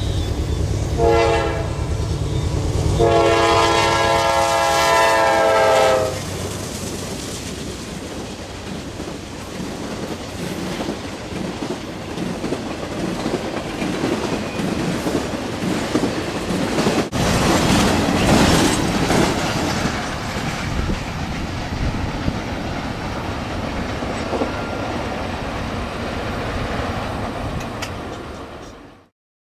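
A multi-tone train horn sounds the tail of one blast, a short blast about a second in, then a long blast from about three to six seconds in, over the low rumble of the locomotive. The train's cars then pass with wheels clicking over the rail joints, loudest a little past halfway, and the sound fades out near the end.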